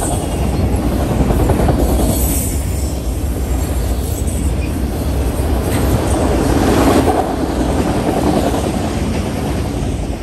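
Freight train of enclosed autorack cars rolling past at close range: a steady rumble of steel wheels on the rails, a little louder for a stretch past the middle.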